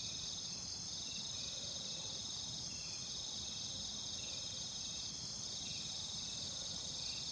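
Steady, high-pitched chorus of night insects such as crickets, with faint short chirps repeating about once a second.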